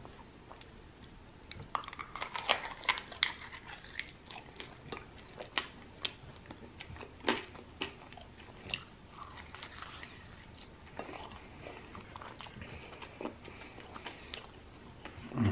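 Close-up biting and chewing of a sauce-glazed chicken wing flat: sharp crunching bites and wet chewing, busiest in the first half, then slower and softer.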